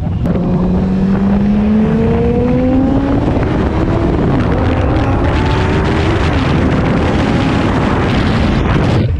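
Campagna T-Rex three-wheeler's engine pulling under acceleration, rising in pitch, dropping at a gear change about three seconds in and climbing again, with wind and road rush.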